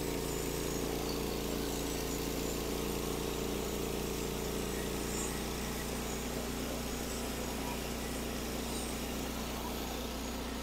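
Norwood HD36 portable sawmill's engine running steadily at a low idle, with no cutting.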